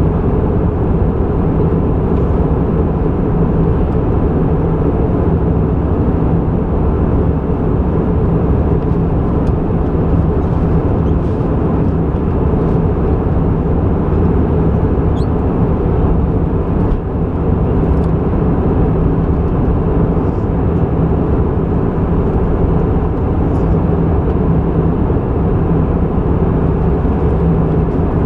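Airbus A320 cabin noise in flight: a loud, steady roar of the jet engines and airflow, with a low hum.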